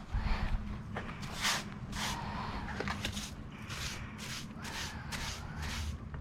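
Broom sweeping a floor: a series of short brushing strokes, about one or two a second.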